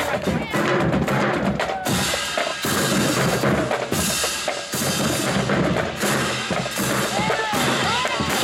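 Marching band drumline playing, with snare and bass drums striking a dense, steady rhythm.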